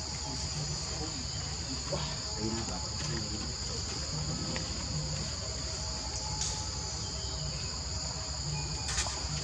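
A steady high-pitched chorus of insects, such as crickets or cicadas, buzzing without a break, with a low rumble beneath and a couple of faint clicks.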